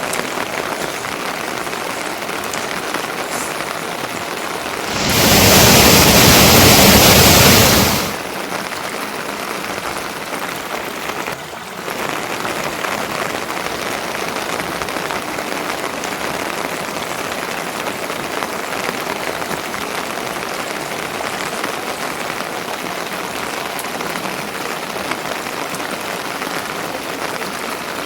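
Steady rain falling. About five seconds in, a much louder rush of noise covers it for about three seconds, then stops suddenly.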